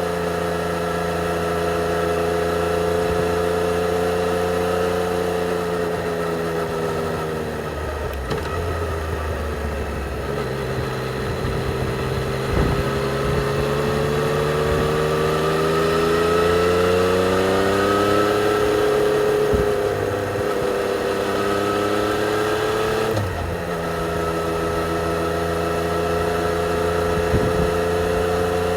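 2020 Yamaha XSR 900's 847 cc inline-three engine with its stock exhaust, running under way on a motorcycle. It pulls steadily, drops off about a quarter of the way in, then climbs steadily in pitch under acceleration, eases off, and changes gear shortly before settling back to a steady cruise near the end.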